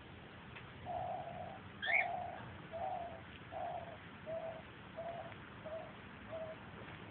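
A bird calling: a series of about eight short, low, hooting notes, each a little shorter than the last, with one quick rising chirp about two seconds in.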